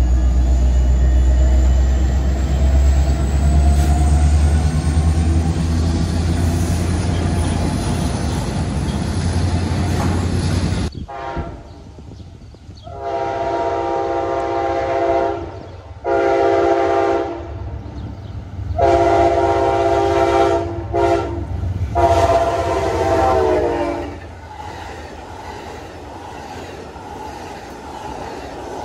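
Norfolk Southern diesel freight locomotives rumbling past, then, after a cut, an approaching Amtrak train sounding its horn five times, mostly long blasts with a short one before the last. Its bi-level Superliner cars then roll past with clickety-clack on the rails.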